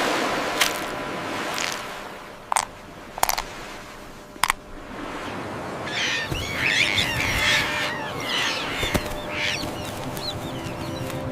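A bird calling in a rapid run of chattering squawks from about six seconds in, after a few sharp clicks over a fading noisy wash.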